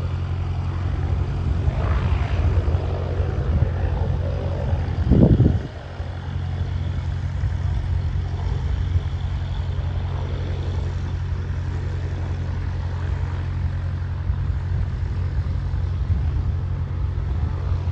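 Propeller airplane's engine droning steadily, with a brief loud low rumble about five seconds in.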